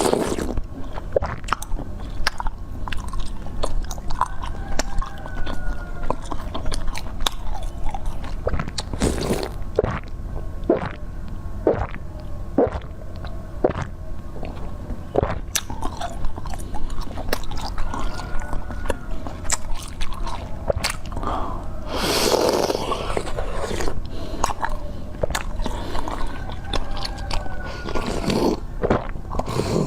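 Close-miked eating: repeated biting and chewing with crisp clicks and crunches. There are three louder, longer crunching bursts, about a third of the way in, about three-quarters in and near the end.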